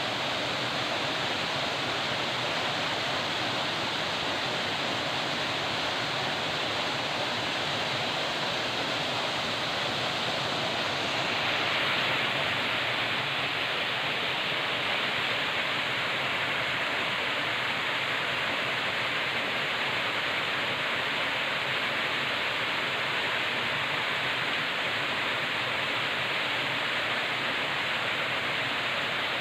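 River water rushing and splashing over rocks in a steady, unbroken roar. It grows a little louder and brighter about eleven seconds in.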